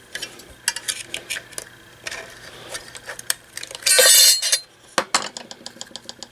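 Light metallic clinks and taps as the open radio's metal chassis and tools are handled on the workbench. A louder scrape comes about four seconds in.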